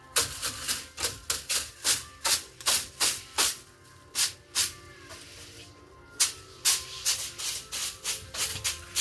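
Repeated quick rasping strokes of manual work, about two or three a second, with a pause of about two seconds near the middle.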